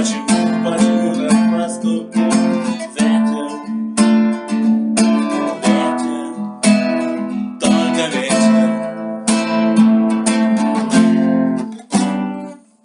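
Acoustic guitar strummed in steady chords, a song's instrumental ending; it stops briefly near the end, then one last strum begins to ring out.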